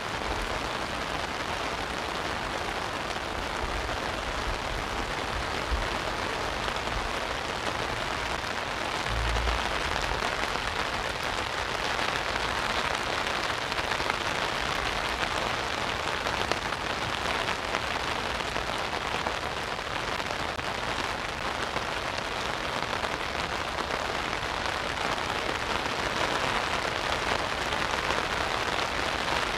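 Heavy rain falling steadily on an umbrella overhead, a dense even hiss.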